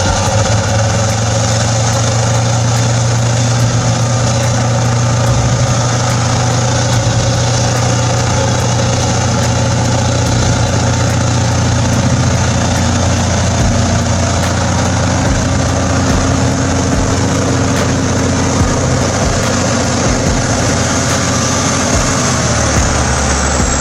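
Heavy forestry machine's engine running steadily at a constant pitch, with a strong low hum and no change in revs.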